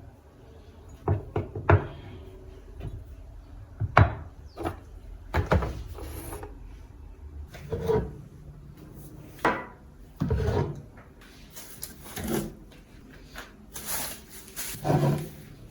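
Irregular knocks and clatters of kitchen things being handled, with wooden bumps like cupboard doors or drawers, about a dozen separate hits spread unevenly through the stretch.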